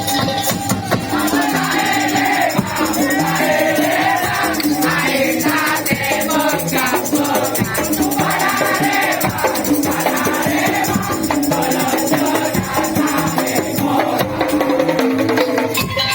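Madurese tong-tong ensemble playing: a dense, steady rhythm of wooden slit-drum and rattling percussion with a wavering melody line over it.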